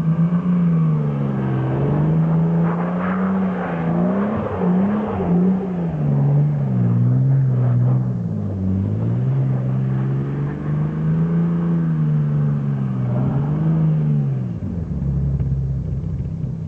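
Vacuum cleaner motor running with its pitch wavering up and down unevenly, then winding down about two seconds before the end, leaving a low rumble.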